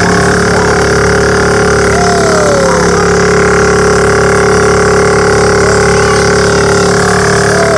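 Bumper boat's small motor running steadily, a constant engine hum.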